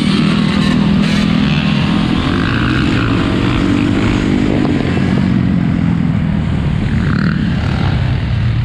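Four-wheeler (ATV) engines running loud and close, their pitch rising and falling as they rev.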